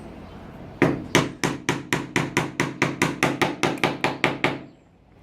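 Hammer driving a small nail into a piece of wood: a quick, even run of light blows, about four a second, starting about a second in and stopping shortly before the end.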